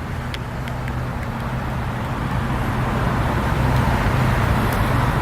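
Steady rumble of road traffic in the background, with a few faint clicks.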